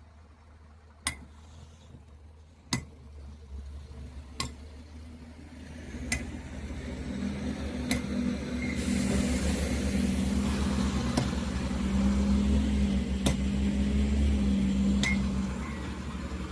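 Hammer blows on the steel of an excavator bucket tooth being changed, sharp single strikes about every second and a half to two seconds. A heavy machine's engine rumbles in about six seconds in and grows louder.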